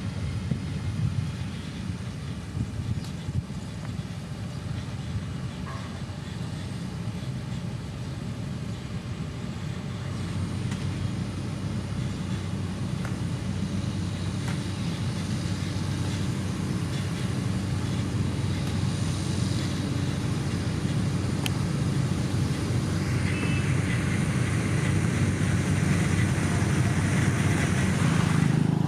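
Diesel engine of heavy road-construction machinery running steadily, growing gradually louder toward the end.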